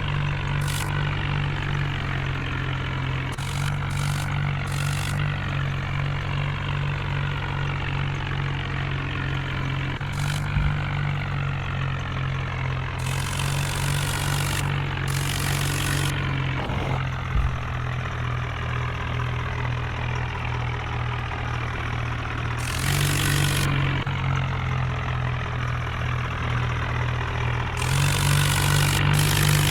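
A heavy diesel engine runs steadily, its note stepping up and down every few seconds as the load or throttle changes. Bands of hiss come in several times, mostly in the second half.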